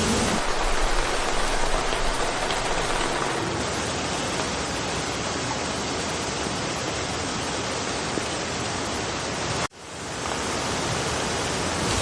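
Steady rain falling through a forest, an even hiss without separate drops standing out. About ten seconds in it cuts out abruptly for an instant, then fades back up.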